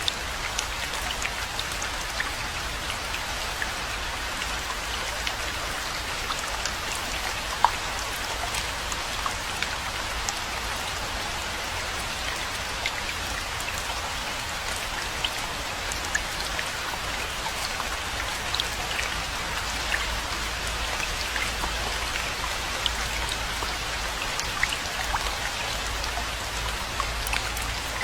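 Steady rainfall: a dense even hiss full of many small sharp drop ticks, with a few louder single drops scattered through and a low steady rumble underneath.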